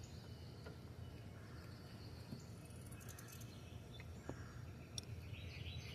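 Quiet low hum with a few faint, separate clicks of pliers and metal as hand tools work on the exhaust crossover tube under the throttle body.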